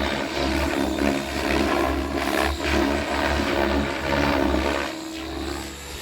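XL Power 550 electric RC helicopter flying 3D manoeuvres: rotor blades whirring, with pitch and loudness swinging up and down as the blade pitch changes.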